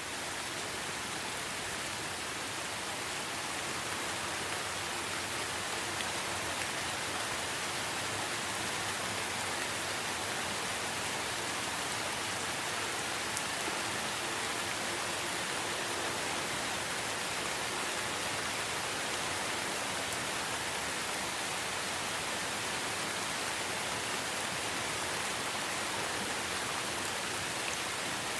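Steady, even hiss with no pitch or rhythm, strongest in the upper range, with a few faint ticks here and there.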